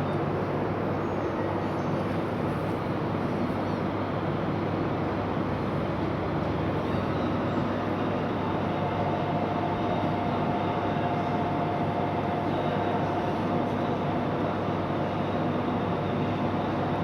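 E1 series Shinkansen double-decker train at the platform, giving a steady, even rumble and hum. A thin high tone comes in about halfway through.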